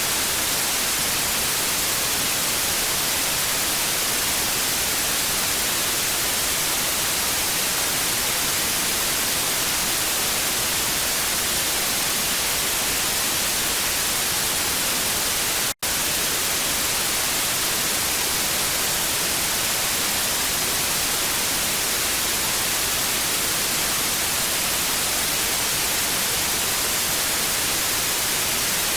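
Television static: a steady, bright hiss of snow noise. It cuts out completely for an instant about halfway through, then resumes unchanged.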